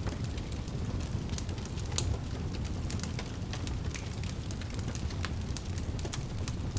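Wood fire burning in a fireplace: a steady low roar of flames with irregular sharp crackles and pops, a louder pop about two seconds in.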